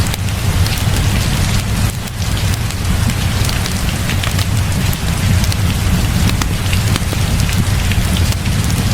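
Heavy rain pouring steadily with a deep low rumble underneath, mixed with a crackling wood fire that gives scattered sharp snaps.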